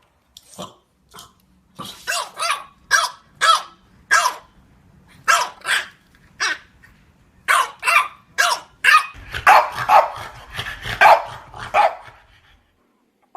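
French Bulldog barking: a run of short, high barks, a dozen or more, coming faster and running together from about nine seconds in, with a growl mixed in.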